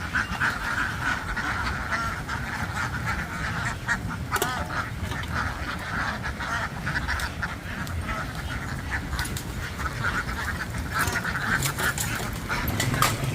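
A large flock of farmed ducks quacking in a dense, continuous chorus, with a low rumble underneath and scattered sharp clicks and knocks, more of them in the second half.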